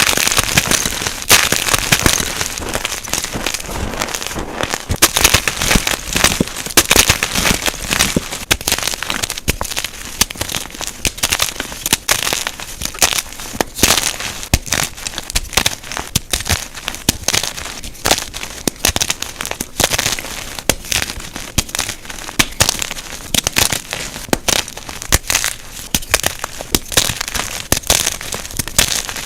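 Unpolished gym chalk blocks being crushed, a dense, continuous run of crunching and crackling with many sharp snaps. The footage runs at double speed, so the crunches come fast and close together.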